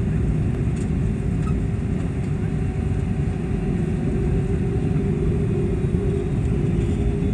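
Steady low rumble inside the cabin of an Airbus A380-800 taxiing before takeoff, with a faint steady hum running through it.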